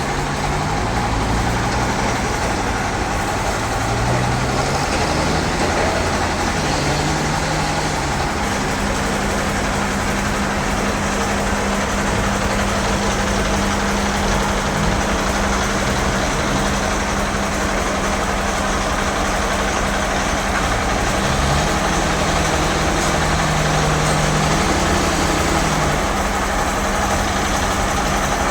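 Sawmill band saw machinery running steadily: a continuous mechanical drone with a steady hum, while lower tones come and go several times.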